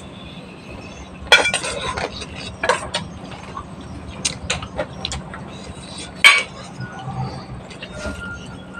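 Clinks and knocks of dishes and utensils being handled, a scattered series of sharp strikes with the loudest about a second in and again about six seconds in.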